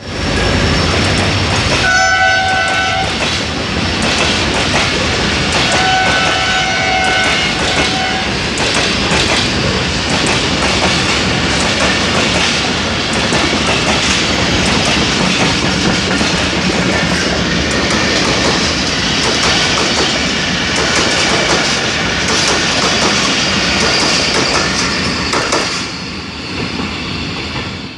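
Passenger train passing close at speed, its horn sounding twice, a short blast about two seconds in and a longer one a few seconds later. The coaches' wheels clatter loudly over the rails until the noise drops near the end as the train draws away.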